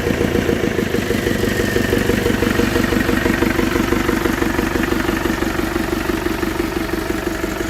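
An engine idling steadily with a fast, even firing rhythm, easing off very slightly in pitch about a second in.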